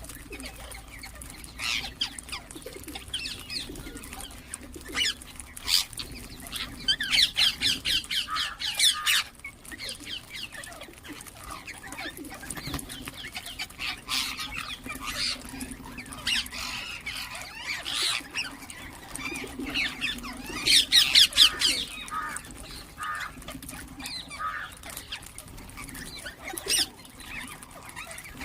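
Ringneck parakeets calling: runs of rapid, shrill repeated notes, loudest in two bursts about seven and twenty seconds in, with scattered short chirps in between.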